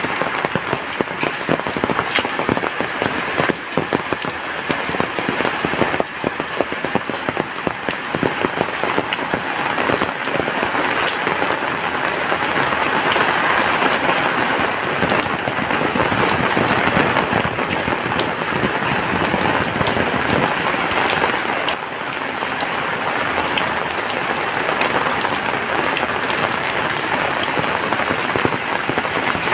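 Heavy rain falling steadily, a dense patter of drops, swelling louder for a stretch in the middle.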